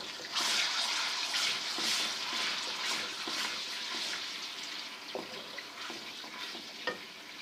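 Garlic-ginger paste sizzling as it fries in hot oil: a steady hiss that starts just after the opening and slowly eases off, with a couple of faint clicks in the second half.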